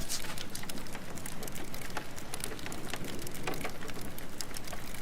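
Steady rain ambience with scattered sharp pops and crackles of a wood fire burning in a fireplace.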